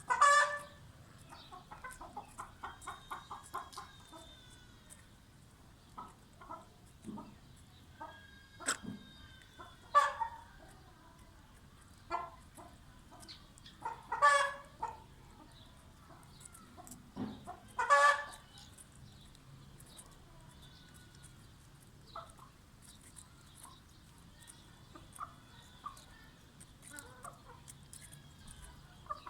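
Rhode Island Red chickens clucking: a quick run of short clucks in the first few seconds, then scattered clucks with a few louder, longer calls about 10, 14 and 18 seconds in.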